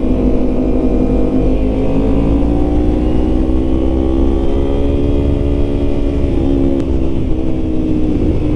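Yamaha MT-09's three-cylinder engine running while the motorcycle is ridden at a steady cruise, its pitch rising gently partway through, over low wind noise.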